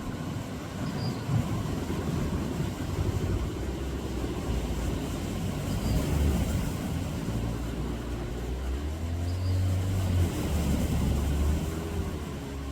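Low rumble of motor vehicles, with an engine tone that wavers up and down for a few seconds in the second half.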